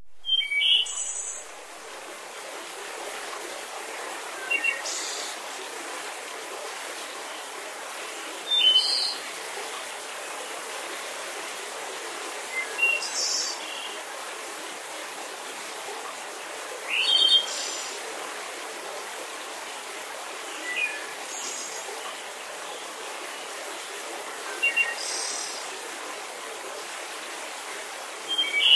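Short bird chirps, a few at a time, coming about every four seconds over a steady hiss.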